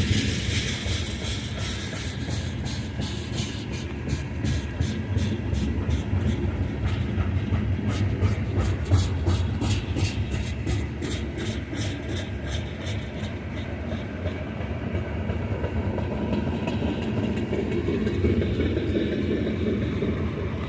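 Loaded oil train's tank cars rolling past with a steady low rumble, the wheels clicking over rail joints about two to three times a second, plainest in the first half.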